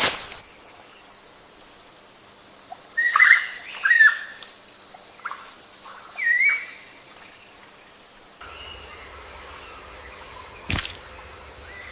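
A bird chirping: a few short calls with quick up-and-down inflections, in a cluster a few seconds in and once more a couple of seconds later, over a steady hiss. A sharp click comes near the end.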